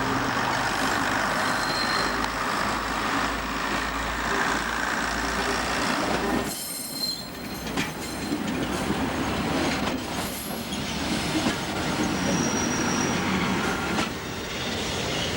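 Heritage railway train moving along the track, with brief high-pitched wheel squeals now and then.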